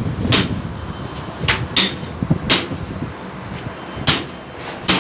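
Hammer blows on metal, about six irregular strikes, several with a brief high ring.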